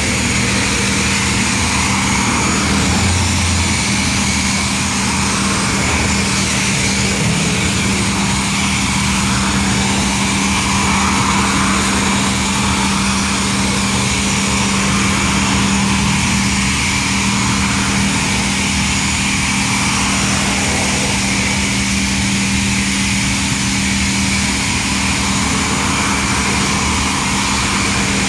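A motor running steadily with a constant hum and an even hiss over it.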